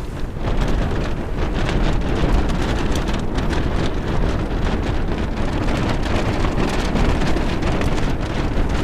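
Strong mountain windstorm buffeting the microphone, a steady heavy rush with a rapid crackle of many small ticks throughout.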